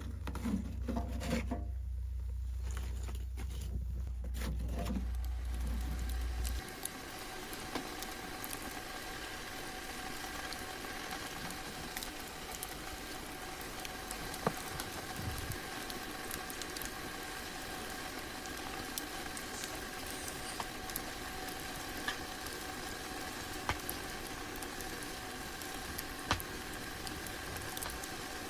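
Food sizzling steadily in a hot pan, with scattered sharp pops. A low rumble and a few knocks sit under it for the first six seconds or so, then stop.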